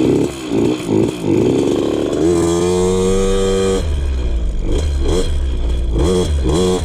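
KTM 50 two-stroke dirt bike engine running rough with its carburettor air screw turned in to one turn out, a too-rich setting it doesn't like. It revs up once about a third of the way in, then falls back to an uneven idle that surges and sags as if wanting to die out.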